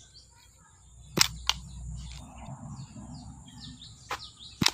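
Plastic toy bow shooting toy arrows: sharp clicks in pairs, the snap of the string releasing an arrow and then the arrow striking a plastic figure, about a second in and again near the end. Birds chirp throughout over a steady high hiss.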